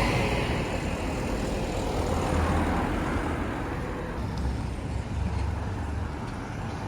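Diesel bus and road traffic passing. A loud pass-by fades over the first second or two, then a low engine rumble swells and falls twice.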